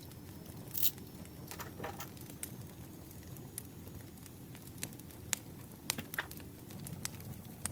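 Campfire crackling: scattered sharp pops and clicks over a low steady rumble, with a brief louder rustle about a second in.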